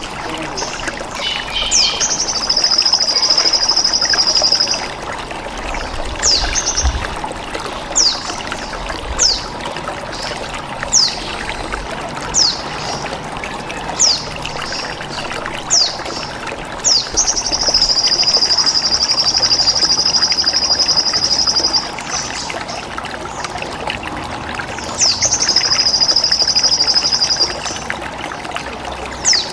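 Bird-training recording of a sogon (crimson sunbird): sharp, high downward chirps every second or two, and three long, high buzzing trills of the bren-cicada kind. Running water trickles steadily underneath.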